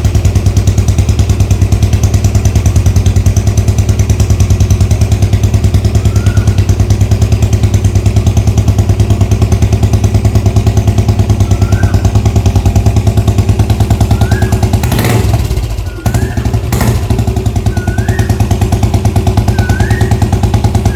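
Royal Enfield Classic 350 BS6's single-cylinder engine idling steadily through an aftermarket barrel exhaust (Canon model), an even, deep thump. About fifteen seconds in there is a brief rush of noise, followed shortly by a sharp knock.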